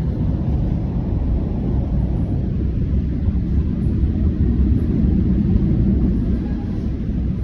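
Train in motion: a steady low rumble.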